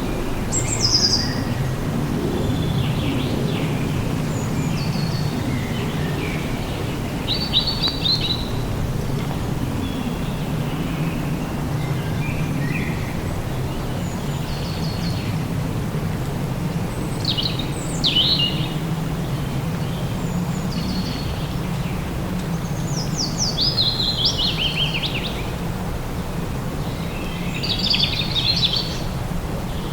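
Birds singing in short, high, quick phrases every few seconds over a steady low rumbling background noise.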